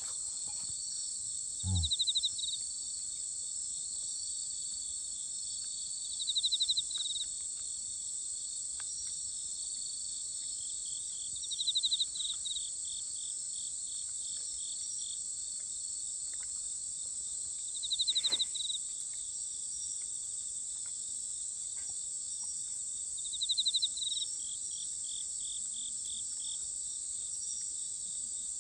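Night insect chorus: a steady high-pitched drone of crickets, over which one cricket sings a short rapid trill about every five to six seconds, each trill slowing into a few separate chirps.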